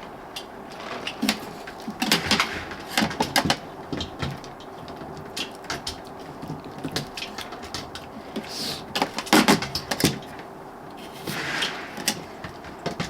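Irregular clicks, knocks and clatters of eating at a table: utensils tapping against dishes, louder around two and nine seconds in.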